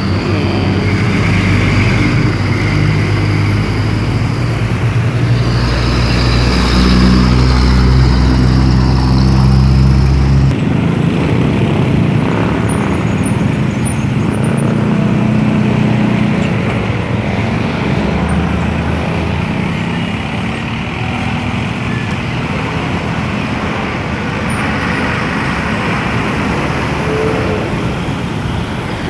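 Container trucks' diesel engines running on the road amid traffic noise. A heavy, steady engine hum dominates for about the first ten seconds, then changes abruptly to a more even rush of road and tyre noise.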